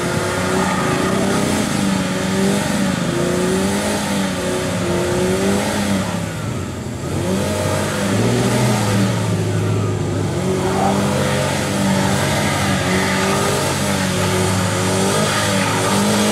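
Toyota Calya's 1.2-litre four-cylinder engine revving hard under load, its pitch rising and falling as the front wheels churn through deep mud and the car struggles for grip. The revs drop briefly about seven seconds in, then pick up and hold steadier.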